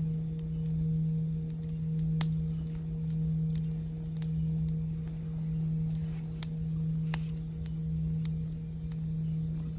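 A low singing bowl tone rings on, its volume wavering in slow pulses about once a second, with a fainter higher overtone. Scattered sharp crackles and pops of a campfire sound over it.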